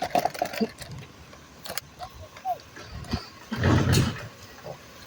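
Recycling truck at work: a run of short, high squeaks from its moving parts, a few sharp clicks, and a loud rumbling burst about three and a half seconds in.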